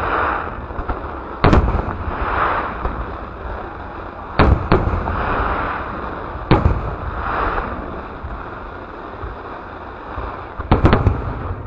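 Aerial fireworks shells bursting: single sharp bangs every two to three seconds, a quick cluster of several bangs near the end, with a loud hissing crackle filling the gaps between them.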